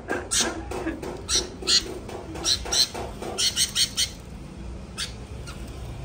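Young caged birds giving a rapid series of short, harsh calls, about three a second, that stop about four seconds in.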